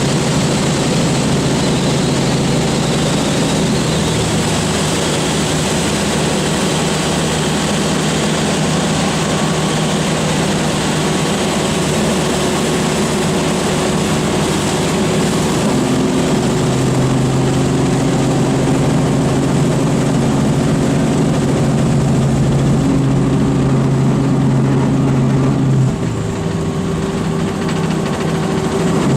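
Robinson R44 Raven II helicopter's rotor and six-cylinder Lycoming piston engine running steadily. The tone shifts about halfway through, and the level dips briefly near the end.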